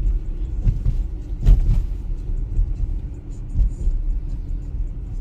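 Steady low road rumble inside a four-wheel-drive car's cabin while driving on a snowy road, with a couple of sharp knocks about a second and a half in.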